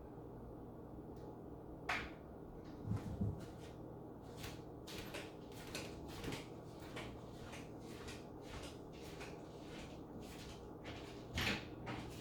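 Irregular knocks and bangs, a few loud and many faint, of the kind cupboard doors and drawers make, over a steady low hum.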